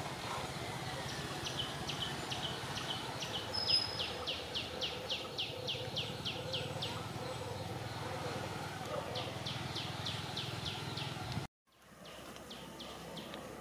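A wild bird calling in runs of short, quick, high descending notes, about four a second, over a steady low background rumble. The sound drops out completely for a moment near the end.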